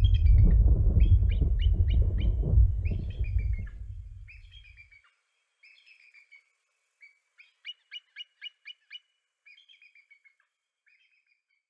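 A small bird chirping and trilling in repeated short phrases, over a deep rumble that fades out over the first five seconds. After that the birdsong goes on alone, with a quick run of loud chirps about eight seconds in.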